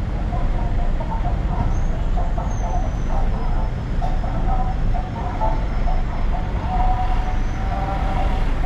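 Steady low rumble of a moving road vehicle, most likely the bus, heard from inside, with a wavering engine drone over it.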